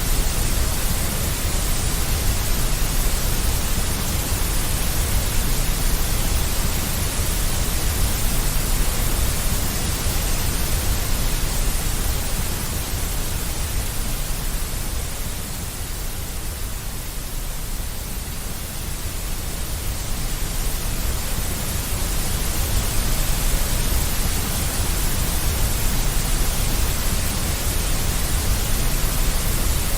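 Deep white noise: a steady, even hiss with a heavy low rumble underneath. It eases slightly about halfway through and then swells back.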